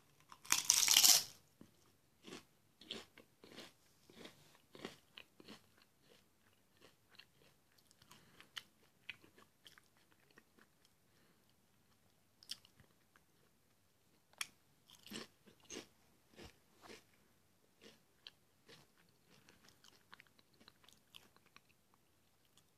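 Someone biting into and chewing Lay's potato chips: a loud crunch in the first second, then irregular faint crunching and chewing.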